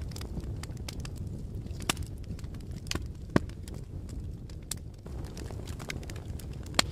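Fire crackling: a steady low rumble of flames with scattered small snaps, and three louder pops, about two seconds in, around the middle, and near the end.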